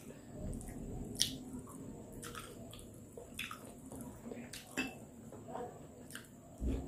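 Close-miked eating: wet chewing and mouth smacks with scattered short clicks, about one a second, as fried crablets are eaten by hand, over steady rain in the background.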